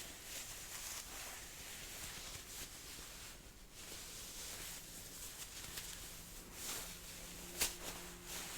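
Jacket sleeve fabric rustling as it is rolled up close to the microphone, in soft surges, with one sharp click near the end.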